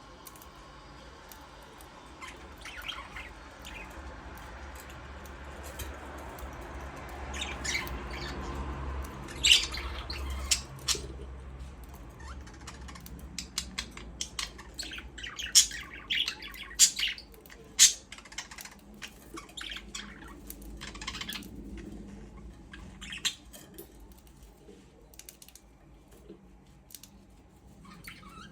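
Budgerigars chirping and squawking in short, sharp calls that come thickest in the middle stretch.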